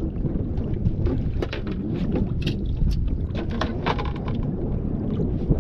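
Wind rumbling on the microphone in a small fishing boat, with scattered short clicks and knocks throughout.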